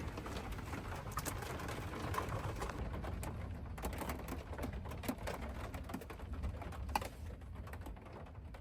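Strong storm wind buffeting a camper van, a steady low rumble, with scattered light ticks and clicks on the body.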